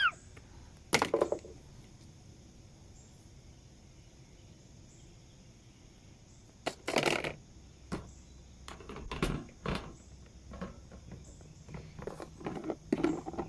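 Plastic toy animal figures being handled and knocked against a surface: a sharp knock about a second in, then scattered knocks and rustles from about seven seconds on.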